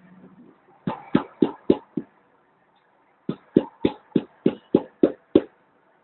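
Hammer striking a pin into a can to punch holes: five quick taps, a short pause, then eight more, about three to four a second.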